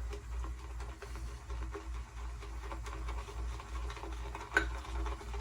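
Shaving brush swirling lather in a shaving bowl, a soft, steady run of tiny crackles and swishes, with one sharper click about four and a half seconds in.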